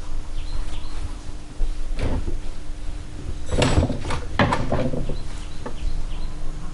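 Knocks and clatter of motorcycle parts and tools being handled and fitted on a workbench, the loudest cluster about halfway through, over a steady low hum.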